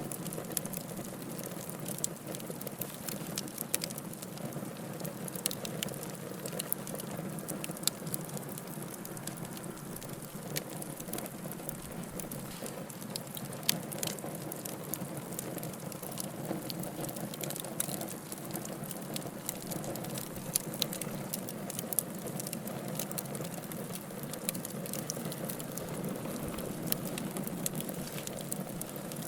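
Wood fire burning in a fireplace: a steady low rush of flame, with frequent sharp pops and crackles from the burning logs at irregular intervals.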